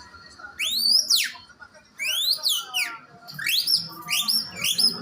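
Birdsong imitated by a man whistling through a piece of plastic: three loud sweeping whistled phrases, each note rising and then dropping steeply. The last phrase, about three seconds in, is a quick run of repeated rising notes.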